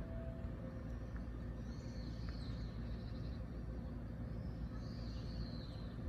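JR 209 series electric commuter train rolling slowly into the station and coming to a stop, a low steady rumble. Two faint high chirps come through over it.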